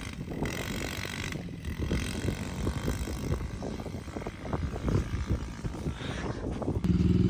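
Small dirt bike engine running as it is ridden, with wind buffeting the microphone; near the end the engine note becomes louder and steadier.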